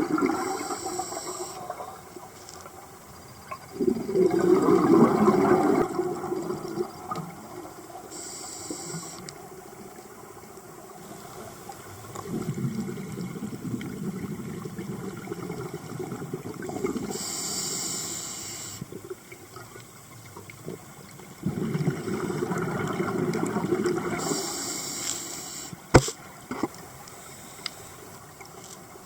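Rushing, swirling water that swells in surges every several seconds, with short hissing bursts between the surges and a single sharp click near the end.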